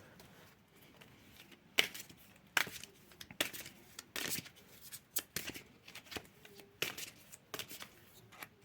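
A tarot deck being shuffled by hand: a series of sharp card slaps and rustles, roughly one a second, starting about two seconds in.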